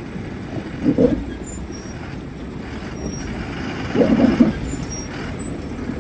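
Heavy vehicle engine running steadily, with two brief louder surges, about a second in and again around four seconds in.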